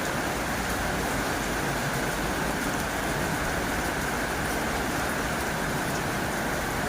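Heavy rain falling steadily on a tin roof, a dense even patter of drops with no let-up.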